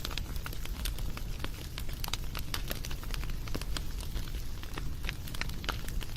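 Wood fire burning, with many quick irregular crackles and pops over a low steady rumble.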